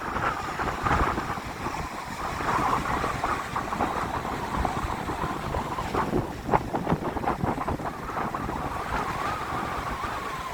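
Strong wind gusting across the microphone over the wash of ocean surf, rising and falling unevenly, with a few sharper buffets partway through.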